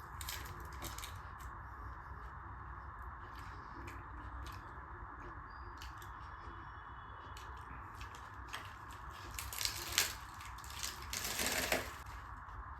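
Close-mic eating sounds: a person chewing and biting buttered tandoori roti with dal, as scattered short clicks and wet smacks that come thicker and louder over the last few seconds, above a steady background noise.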